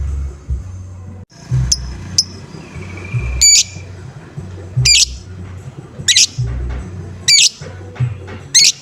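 Lovebird giving short, harsh 'ngoek-ngoek' calls, about seven in all, roughly one a second, the kind of call played as a lure to get other lovebirds singing. A pulsing low beat runs underneath.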